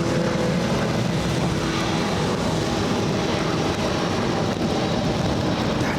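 Airbus A330 jet engines at takeoff thrust during the takeoff roll, a loud steady noise.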